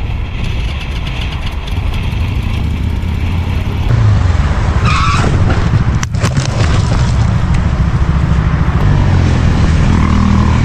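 Motor vehicle engine running steadily with road noise, growing louder after about four seconds.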